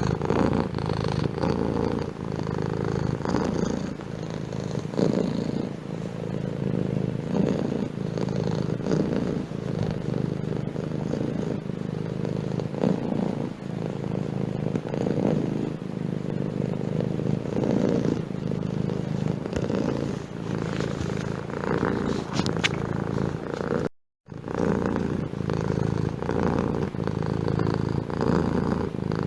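Domestic cat purring steadily and continuously, broken by a brief dropout to silence about five seconds before the end.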